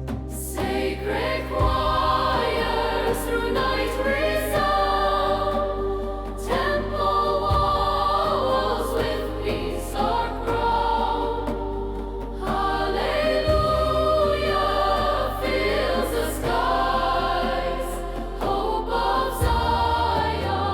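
Music: a choir singing a slow hymn over sustained instrumental backing, with a held bass note that shifts every few seconds.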